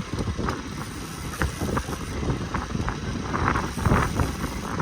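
Wind buffeting the microphone on a small fishing boat at sea, with irregular knocks and thumps from the boat.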